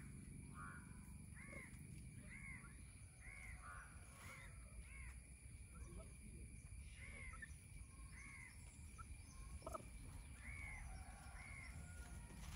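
Faint, repeated short bird calls, each rising and falling in pitch, coming about once a second with a brief pause partway through, over a low background rumble.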